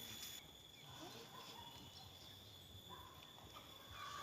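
Near silence: faint outdoor ambience with a steady high tone, and faint distant voices about a second in and again near the end.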